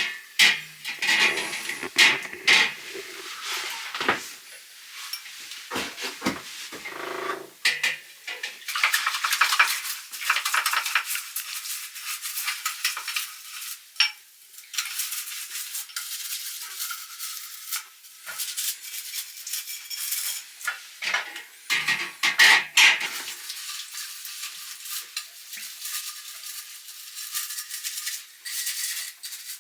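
Dishes being washed by hand in a basin of hot water: crockery and cutlery clinking and clattering against each other amid water sloshing and splashing, in irregular bursts.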